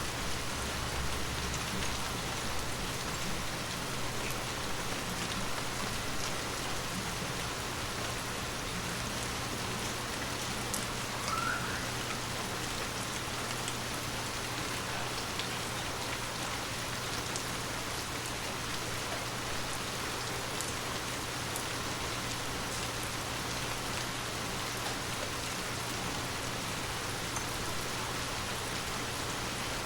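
Heavy rain falling steadily, an even hiss with scattered individual drops ticking on surfaces. A short, slightly louder sound stands out about eleven seconds in.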